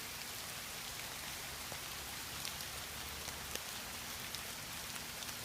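Steady rain falling, with a few single drops ticking now and then.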